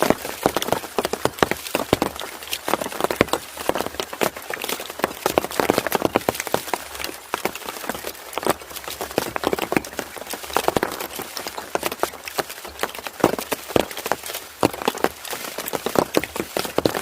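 Rain falling, with many sharp, irregular drops hitting a hard surface close by.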